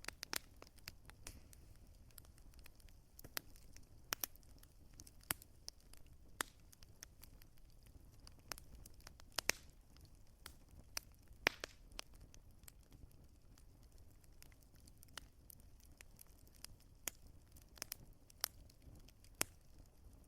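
Wood fire crackling, with irregular sharp pops over a low steady rumble; a few louder pops stand out around the middle.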